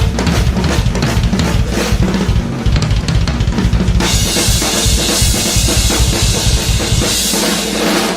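Drum solo on a drum kit: fast strikes on snare, toms and bass drum, then continuous crashing cymbals from about halfway, with the low drums thinning out near the end.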